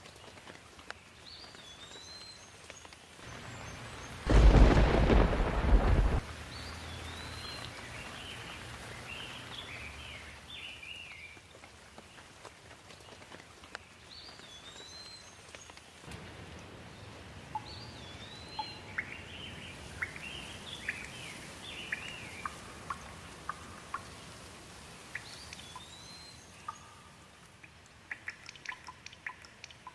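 A loud thunderclap about four seconds in, lasting about two seconds and then rumbling away, over steady rain. Birds chirp on and off throughout, and there is a patter of sharp drips near the end.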